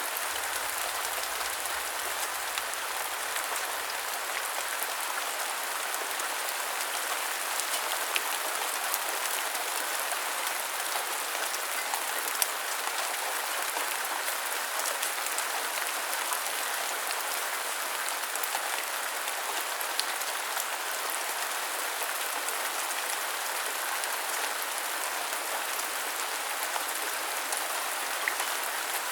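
Steady rain: an even hiss with many faint scattered drop ticks, and a few sharper drops standing out here and there.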